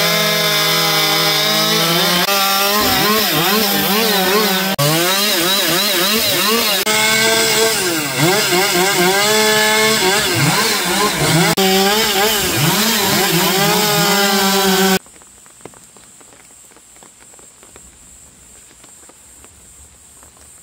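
Chainsaw cutting firewood, its engine pitch repeatedly dipping under load and climbing again, with a few abrupt breaks. It cuts off suddenly about three-quarters of the way through, leaving only quiet outdoor background.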